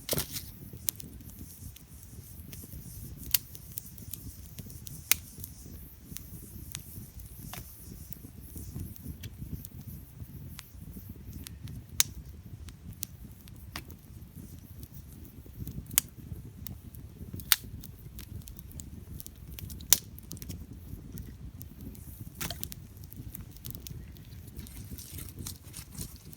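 Wood campfire crackling: irregular sharp pops and snaps from the burning firewood, a handful of them clearly louder, over a steady low rumble.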